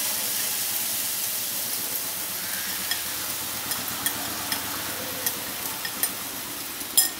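Sugar-coated grated coconut sizzling softly in a hot non-stick pan over a low flame, a steady hiss, with scattered light clicks of a bowl and utensils against the pan and a sharper click near the end.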